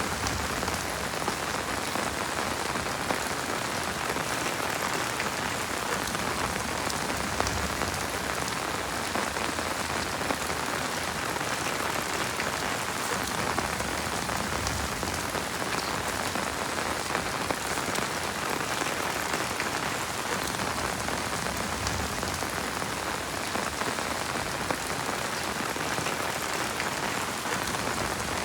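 Heavy rain falling steadily, a dense hiss with scattered sharper drop hits.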